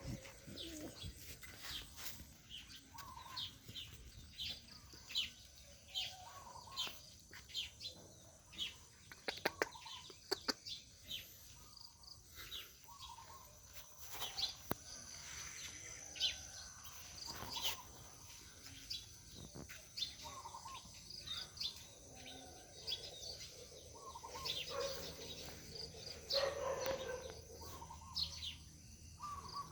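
Birds chirping and calling, with many short repeated chirps throughout, and a few sharp clicks about nine to ten seconds in.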